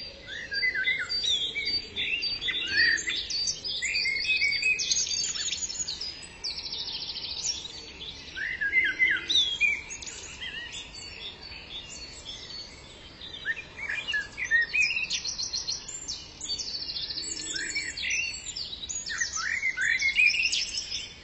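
Several songbirds chirping and singing at once, with short chirps and quick rapid trills overlapping continuously.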